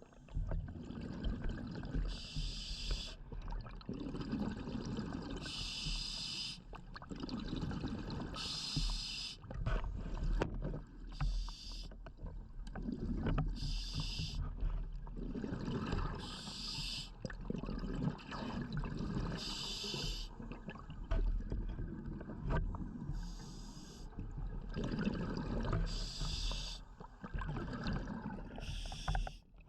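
Scuba diver breathing through a regulator underwater: a hiss of air about every two to three seconds, with a low bubbling rumble of exhaled air between.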